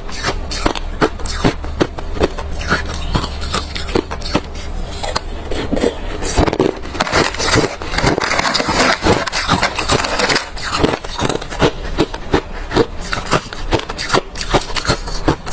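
Hard refrozen crushed ice being bitten and chewed: a dense, irregular run of sharp crunching cracks, thickest around the middle.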